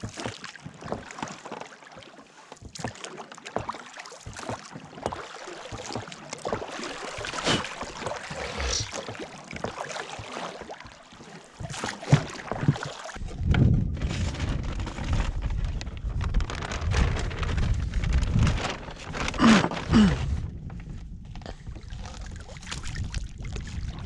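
Water splashing and irregular knocks from a small boat out on the water. From about halfway through, wind buffets the microphone with a low rumble.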